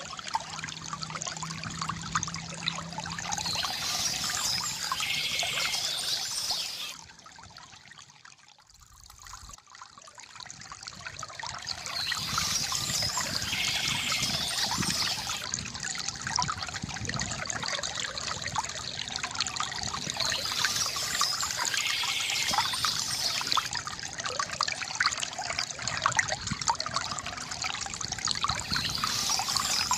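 Small stream trickling and babbling over stones in a steady rush. The water fades down briefly about seven seconds in and swells back a few seconds later.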